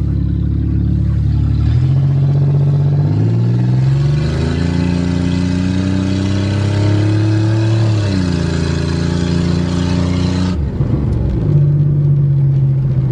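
Car engine accelerating hard under load, its pitch climbing and dropping back several times as it shifts up, with a rushing noise that cuts off near the end as the throttle is eased and the engine settles to a lower, steady note.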